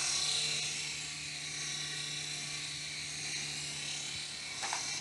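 Small electric RC toy helicopter in flight: the motor and spinning rotor blades give a steady whir with a low hum under it.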